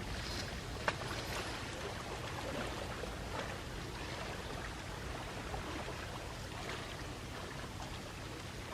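Small sea waves lapping and washing against the shore: a steady wash of water with small splashes, and one short sharp click about a second in.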